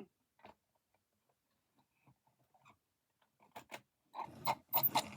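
Chuff sound from a model steam locomotive's chuffing tender: a few faint clicks, then from about four seconds in a quick, even run of sharp mechanical chuffs.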